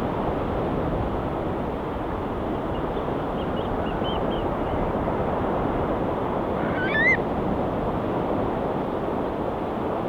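Steady wash of ocean waves. A few faint, high bird calls come three to four seconds in, and one brief, louder gull call, rising in pitch, about seven seconds in.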